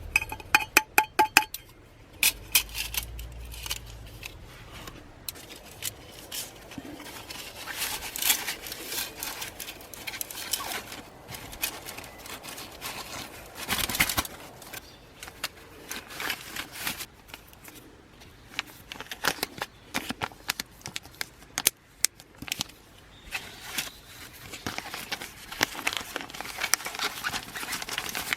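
A quick run of ringing metallic clinks in the first second and a half, then irregular crackling and small clicks from the small wood-fire camp stove setup.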